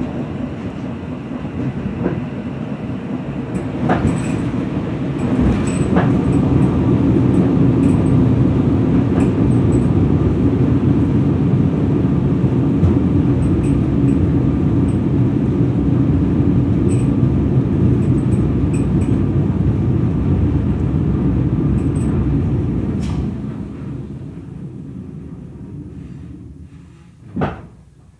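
EN57 electric multiple unit heard from inside the carriage, running along the track with a steady rumble and scattered short high squeaks and ticks. It slows and falls much quieter as it draws to a stop at a station. A single loud clunk comes near the end.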